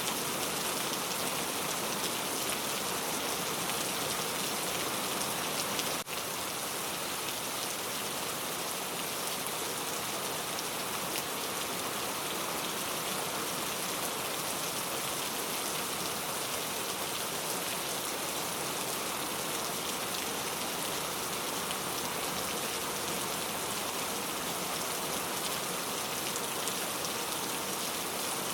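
Steady rain falling, an even hiss of many drops with no thunder, and a split-second dip in the sound about six seconds in.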